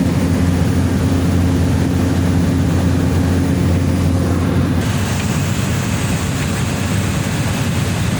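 Cessna 208B Grand Caravan's single turboprop engine and propeller droning steadily, heard inside the cabin. About halfway through, the even low hum turns rougher and hissier.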